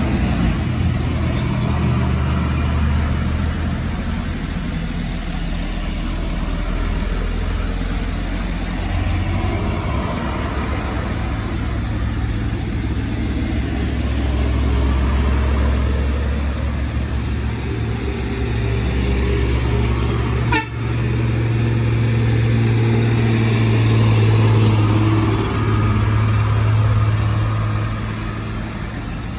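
Heavy diesel engines of sugarcane-laden trailer trucks running, a loud steady low drone that shifts in pitch, with a brief sharp break about two-thirds of the way in.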